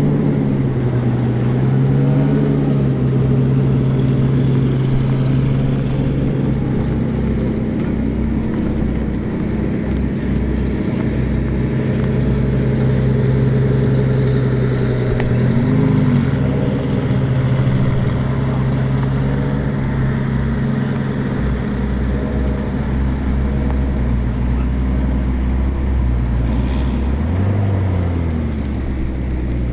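Old motorcycle engines running at low speed as bikes ride slowly past one after another, a steady engine note broken by short throttle blips about two seconds in, around sixteen seconds, and again near the end.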